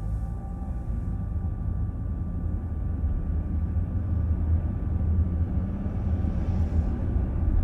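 Steady low road and tyre rumble of a car driving, heard from inside the cabin, growing slightly louder.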